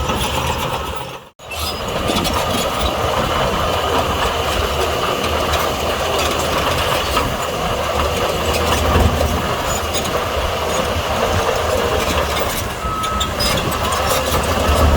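Heavy diesel earthmoving machinery running steadily under load, with a brief break in the sound about a second in.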